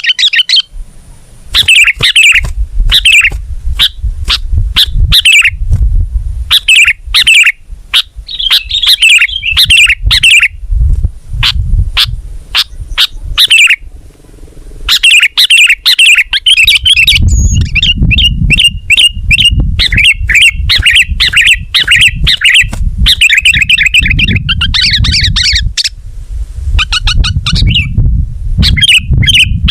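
Sooty-headed bulbul (kutilang) singing loudly: rapid runs of short chirping and warbling notes, broken by brief pauses, over a low rumble.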